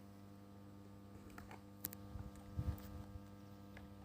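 Low, steady electrical hum of substation equipment, faint, with a few soft low thumps and clicks about halfway through.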